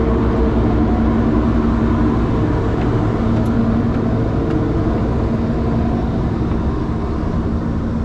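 Sightseeing boat's engine running with a steady low hum, mixed with wind and water noise.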